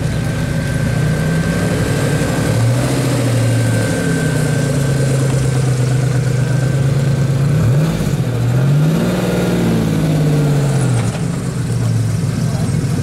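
A modified classic car's engine idling steadily close by. About two-thirds through it is blipped once quickly, then revved a little longer before dropping back to idle.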